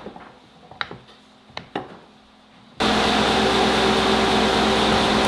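A few light knocks, then about three seconds in a loud, steady machine hum and hiss with several fixed tones starts abruptly.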